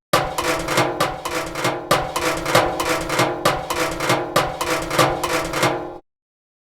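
A found-sound percussion sample played back: a rapid, uneven run of knocking hits over a ringing pitched tone, which cuts off suddenly about six seconds in.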